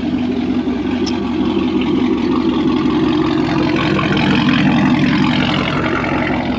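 Chevrolet Camaro SS V8 engine running steadily at idle.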